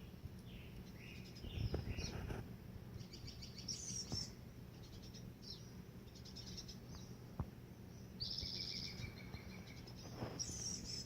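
Small birds chirping and calling repeatedly, with a rapid trill about eight seconds in, over a steady low hum. A short rustle comes about two seconds in.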